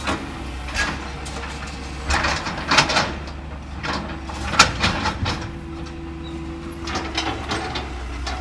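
CAT 325L hydraulic excavator's diesel engine running steadily while it breaks up a building, with several clusters of sharp knocks, cracks and crunches from the debris it works.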